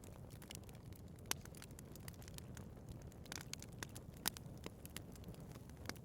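Wood fire burning in a fireplace: frequent small crackles and pops over a low steady rumble of the flames. Two louder pops come about a second in and about four seconds in.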